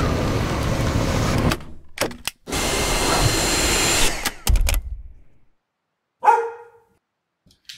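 Dyson V6 cordless vacuum running in stretches that start and stop abruptly, falling silent about five seconds in. About a second later a dog gives one short call.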